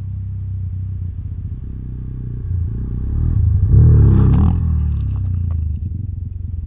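Motorcycle engine running, louder for a second or so about four seconds in before easing back, with a few sharp clicks and rattles.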